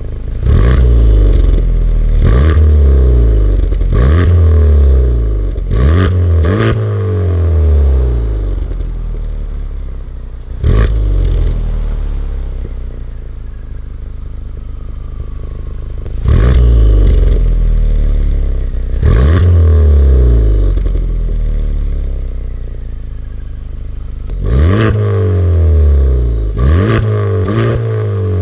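Honda Civic Type R FK8's 2.0-litre turbocharged four-cylinder revved from idle in a series of short blips, each rising and falling back, through a Remus front pipe and valved cat-back exhaust with the valves completely closed.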